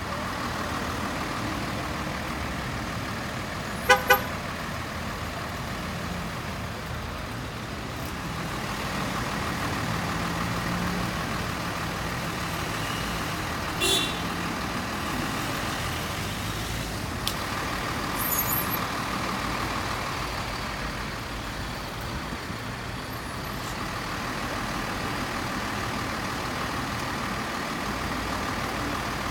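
Steady street traffic noise, with a vehicle horn giving two short toots about four seconds in and another brief pitched blip near the middle.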